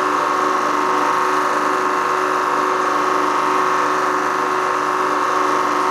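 Hydraulic press running, its pump motor giving a loud, steady drone with a constant tone.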